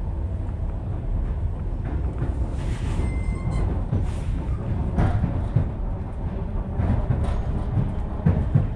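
Moving train heard from inside the carriage: a steady low rumble with uneven wheel knocks over the rail joints, and a brief high tone about three seconds in.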